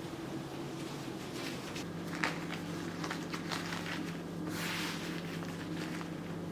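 Light clicks, taps and brief rustling swishes of kitchen food preparation, over a low steady hum that grows stronger about two seconds in.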